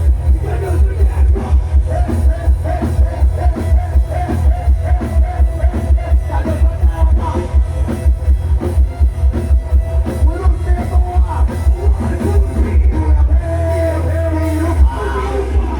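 Loud dance music blasting from a Thai rot hae sound truck's speaker rig, with a heavy pounding bass beat and a melody line above it; the beat drops out for a moment near the end.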